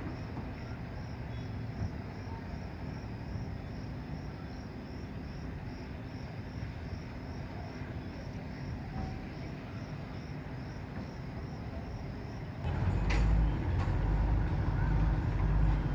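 Steady low machinery rumble with an insect chirping in an even pulse. About twelve and a half seconds in, a much louder, low machine drone starts abruptly.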